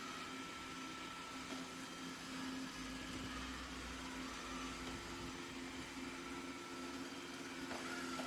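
Steady machine hum with a few held tones over a noise bed, like a small motor running.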